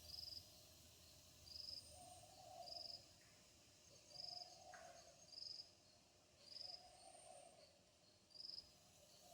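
Faint animal calls, insect-like: short high chirps repeating about once a second, alternating with a lower, longer call roughly every two seconds.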